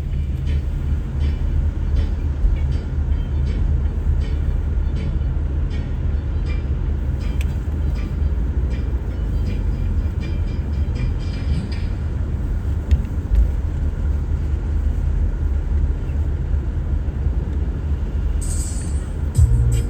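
Steady low rumble of a vehicle driving, engine and road noise with no rise or fall, and some faint ticks.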